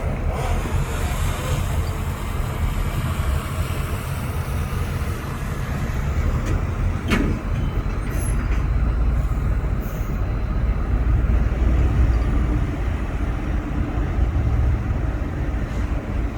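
Heavy diesel earthmoving machinery, bulldozers and dump trucks, running with a deep steady rumble, with a brief sharp sound about seven seconds in.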